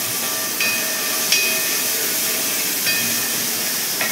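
Chopped onion, tomato and green chilli sizzling steadily in coconut oil in a brass uruli, with a few light knocks and scrapes of a wooden spatula stirring in the pot.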